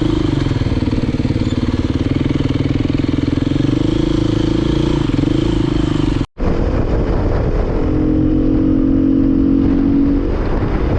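Dirt bike engine running under way, its note rising and falling with the throttle. About six seconds in the sound cuts out for an instant, then the engine comes back on a steadier, held note.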